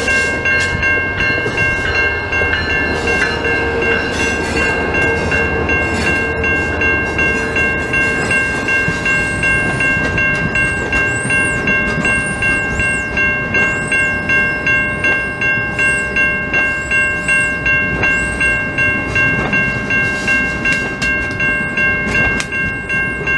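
A Talgo passenger train led by a diesel locomotive rolls past with a steady rumble. Over it a bell-like warning rings evenly, about two to three rings a second, and keeps the same strength while the cars go by. Short high squeals come and go through the middle.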